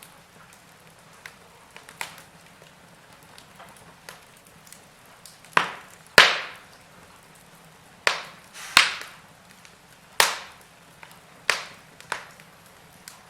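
Burning logs in a fireplace crackling: a faint steady hiss broken by sharp pops, around eight of them and mostly in the second half, the loudest about six seconds in.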